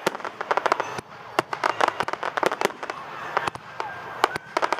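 Fireworks going off: a dense, irregular run of sharp bangs and crackles, many in quick succession, with a few faint whistles in between.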